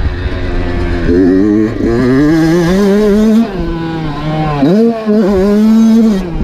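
Dirt bike engine revving under throttle, its pitch climbing, easing off about three seconds in, dipping sharply and climbing again, then dropping off near the end.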